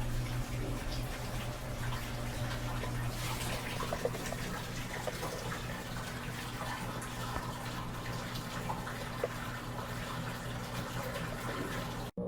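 Electrolux LT13B top-load washing machine draining: a steady drain-pump hum with water running and splashing. The sound cuts off suddenly near the end.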